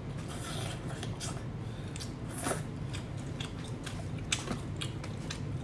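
Close-up sounds of a person biting and chewing cooked spiny lobster meat: many short wet clicks and smacks, over a low steady hum.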